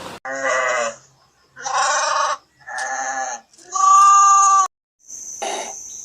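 Four bleats from a farm animal, separated by short gaps; the fourth is the loudest and longest and cuts off abruptly. A different, rougher animal call starts just before the end.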